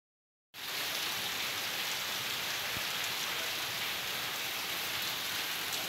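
Heavy rain falling, with water streaming off the roof edge onto a wet tiled floor: a steady hiss that starts about half a second in.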